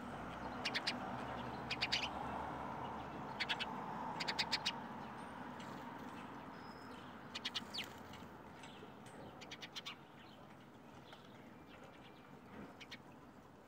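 Small birds chirping in short, rapid trills every second or two over a steady background hiss, the whole sound slowly fading out toward the end.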